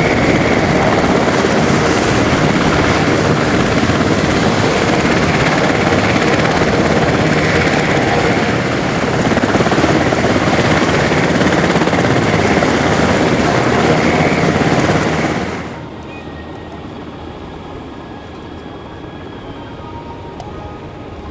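Helicopter running close by, a loud steady rotor and turbine noise. About fifteen seconds in it cuts off abruptly to a much quieter background.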